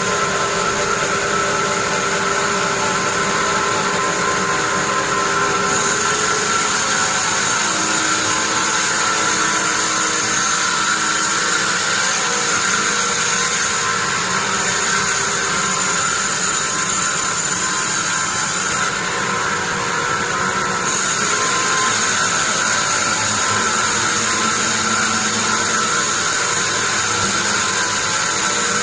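Sawmill band saw sawing pine: a loud, steady machine drone with a high whine that cuts in about six seconds in and drops out briefly twice.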